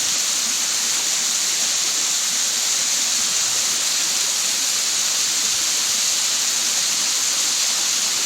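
Tall mountain waterfall, over 100 feet high, with a steady hiss of falling water.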